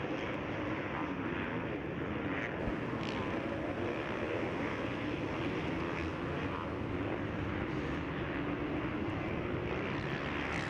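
Several motocross bikes racing on the track, their engines running together as a steady mixed engine noise.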